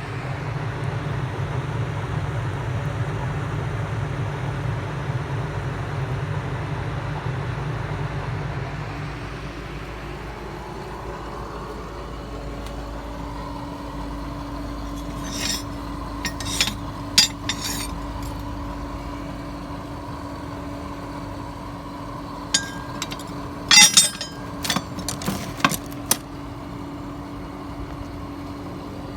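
A motor or engine running steadily, louder for about the first nine seconds, with two clusters of sharp metallic clinks in the second half.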